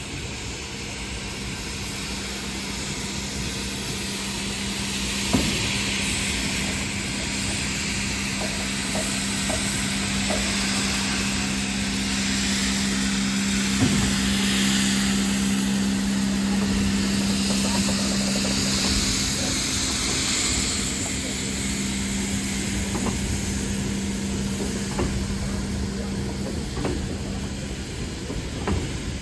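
Steam locomotive hissing steam over a steady low hum; the hiss swells to its loudest about midway and eases off, with a few short knocks.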